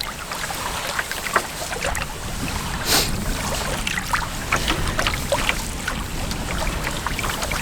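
Wind buffeting the microphone over small water sounds around a canoe, with scattered light knocks and a brief louder rush about three seconds in.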